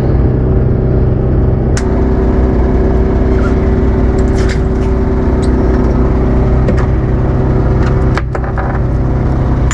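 A motorboat's engine running at a steady speed, an even drone with noise from wind and water over it. A few sharp knocks cut through it, at about two, four and a half and eight seconds in.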